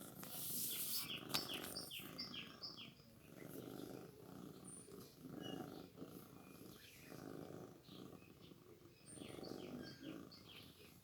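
Domestic cat purring in slow waves that rise and fall. Short runs of quick, high chirps come near the start and again near the end.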